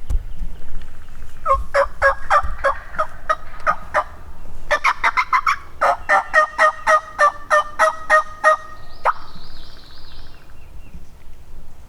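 Turkey yelping: two long runs of evenly spaced notes, about four a second, the second run longer, ending about nine seconds in. A fainter, higher warbling sound follows briefly.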